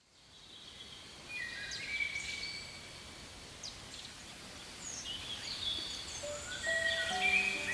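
Quiet outdoor ambience with birds calling in short, high whistled notes. Background music comes in about five seconds in.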